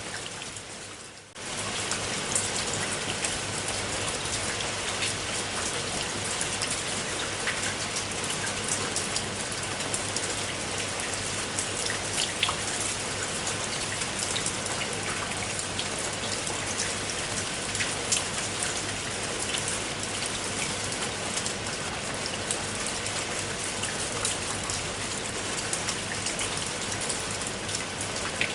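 Steady rain falling, with many individual drops clicking on a hard surface. About a second in the sound briefly fades down, then comes back abruptly.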